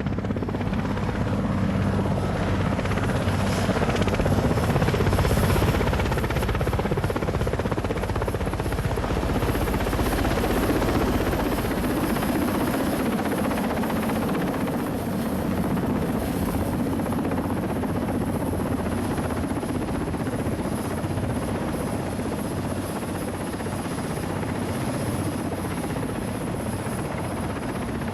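Westland Wessex helicopter in flight: steady rotor and engine noise with a thin, steady high whine over it.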